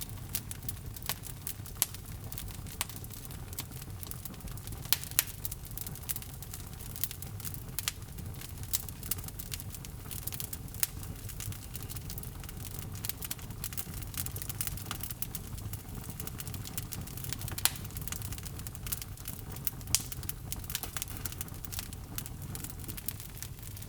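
Log fire burning in a fireplace: a steady low rumble of flames with irregular crackles and a few louder pops of the wood.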